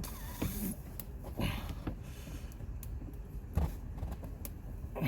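Scattered knocks and clicks of tools and parts being handled during work on a car's underbody shield, four or so short strikes over a steady low rumble.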